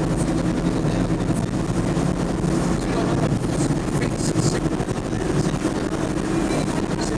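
A train running along the track, heard from inside an end cab: a steady low drone with the rumble of wheels on rail and a few brief high clicks.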